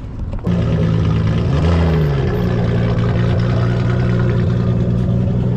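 A car engine comes in suddenly about half a second in and idles loudly and steadily, with one short blip of the throttle about a second and a half in.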